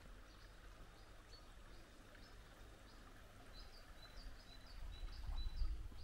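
Small songbird chirping, a quick run of short high notes repeated over and over, busiest in the second half. A low rumble swells about five seconds in.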